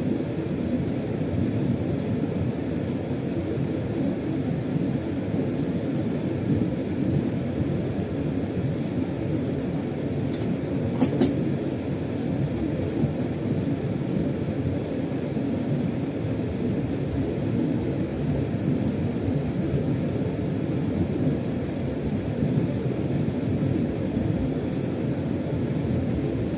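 Freight train heard from inside the locomotive cab while running along the track: a steady, low running noise, with a few sharp clicks about ten to twelve seconds in.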